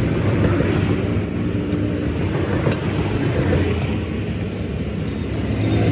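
A motor vehicle engine running steadily with a low, even hum, with a few faint clicks over it.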